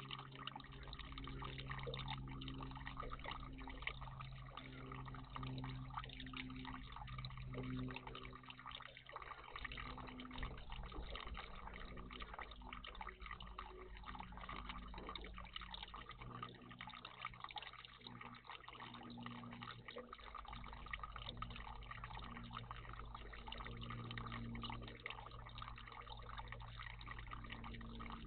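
Water trickling and dripping steadily in a garden bird bath. A low hum runs under it, fading out about nine seconds in and coming back near the middle.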